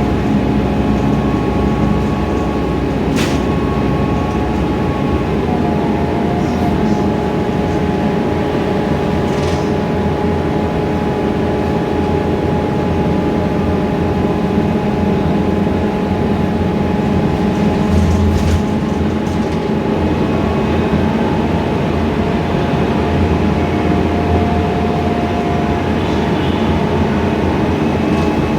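Scania K320iA CNG city bus heard from inside the cabin while under way: a steady engine drone and road rumble, with a few sharp rattles or clicks a few seconds apart.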